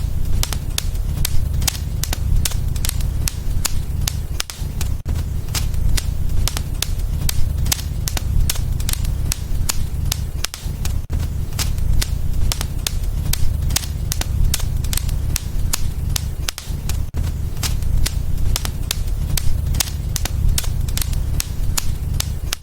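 Wood fire in a fireplace crackling, with frequent sharp pops and snaps, several a second, over a steady low rumble of the flames.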